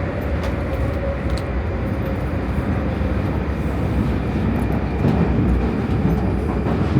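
Prague metro train running through the tunnel, its wheels and running gear rumbling steadily, with a faint motor whine that drops slightly in pitch as it begins slowing for the next station.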